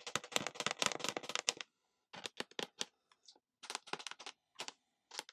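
Close-miked ASMR clicking: a fast run of crisp clicks for under two seconds, then a few short clusters of separate clicks.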